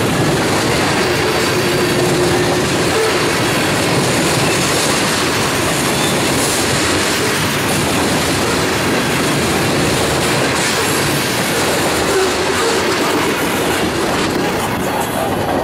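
Covered hopper cars of a freight train rolling past over a rail crossing, steel wheels clacking and rumbling steadily with a faint wheel squeal now and then. The sound eases slightly near the end as the last car goes by.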